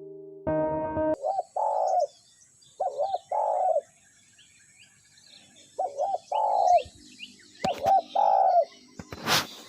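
Spotted doves cooing: four phrases, each two short notes then a longer coo, spaced a second or two apart, with faint small-bird chirps behind. A brief loud noise cuts in near the end.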